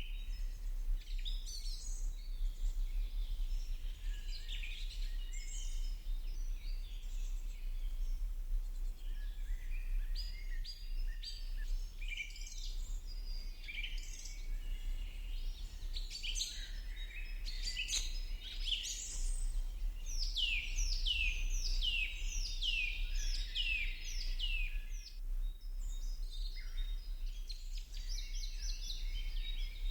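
Several birds chirping and singing continuously, with a run of quick, falling whistled notes about two-thirds of the way through. A steady low hum runs underneath.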